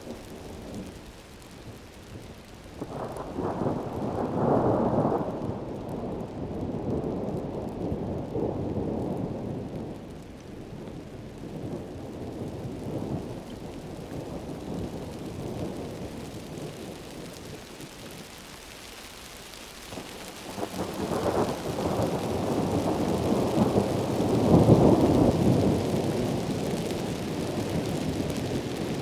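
Heavy rain falling steadily, with two long rolls of thunder: one about three seconds in that rumbles for several seconds, and a louder one about twenty-one seconds in that swells and fades over several seconds.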